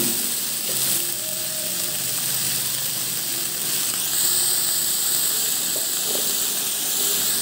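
Freshly added cubes of raw pumpkin sizzling in hot oil in a metal kadai: a steady, hissing fry.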